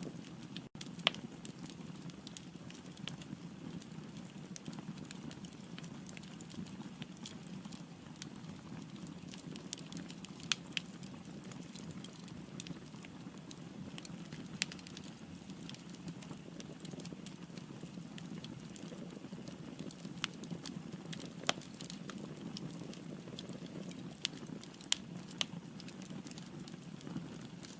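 Firewood burning in a fireplace: a steady low rush of flame with irregular crackles and pops, and a few louder snaps scattered throughout.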